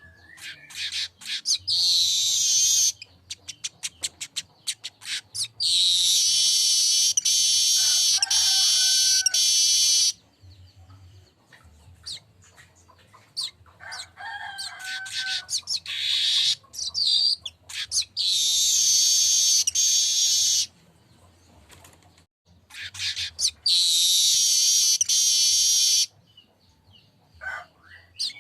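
Manyar (streaked weaver) singing repeatedly. Runs of quick high chips lead into long, loud, high-pitched song phrases lasting a few seconds each, with a few lower whistled notes between phrases.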